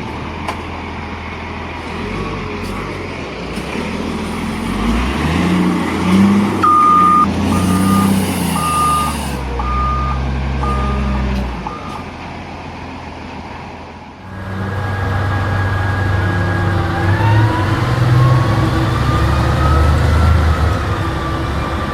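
Heavy diesel earthmoving machine running under load, with a back-up alarm beeping about six times near the middle. After a sudden change about two-thirds of the way in, another diesel engine revs with a whine that slowly rises in pitch.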